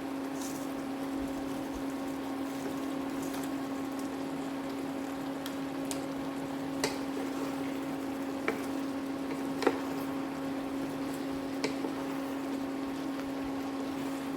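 Water heating toward the boil with a steady electric hum and a hissing, bubbling noise. A few light clicks or taps come in the second half.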